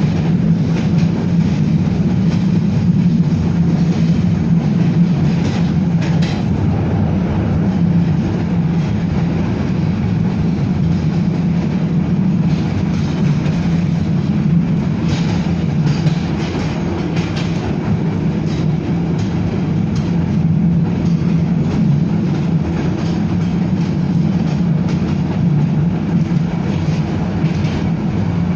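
BKM-62103 tram under way, heard from inside the car: a steady low rumble of wheels running on the rails, with faint clicks from the rail joints.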